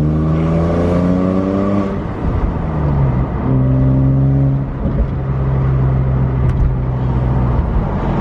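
2009 BMW 135i's twin-turbo straight-six accelerating with rising pitch, then easing off about two seconds in. It then holds a steady engine note for several seconds before dropping off near the end.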